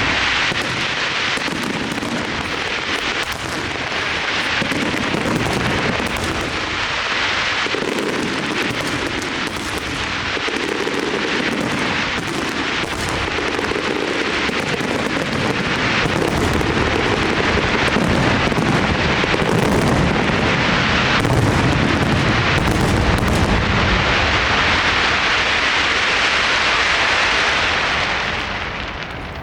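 Castillo night fireworks display: a dense, continuous barrage of shells bursting in rapid, overlapping bangs over a steady crackle. It eases off slightly near the end.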